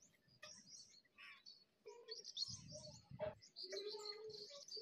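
Small birds chirping, with many short high calls repeating, and a couple of soft low thuds around the middle.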